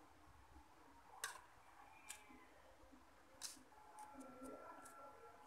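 Faint eating sounds from a person chewing a mouthful of rice and raw winged bean. A few soft, sharp clicks, the two clearest about a second in and a little past the middle, with quieter mouth noises between.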